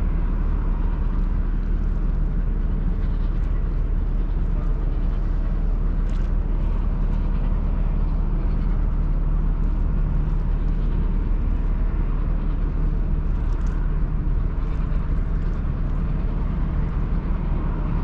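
Steady low drone of a Ro-Ro passenger ferry's engines and machinery, with a deep hum under an even rushing noise that stays level throughout.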